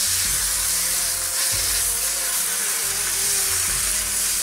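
Spelt semolina sizzling steadily in hot oil in a frying pan as it is stirred with a wooden spatula. Background music plays underneath.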